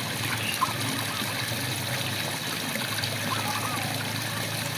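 Steady rain falling, with short frog calls about twice.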